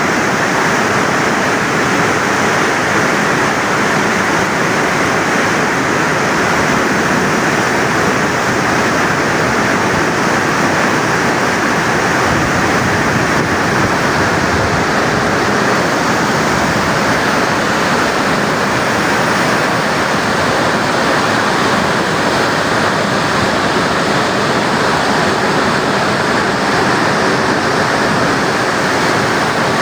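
Floodwater pouring down the Tarbela Dam service spillway: a loud, steady rush of water that does not change.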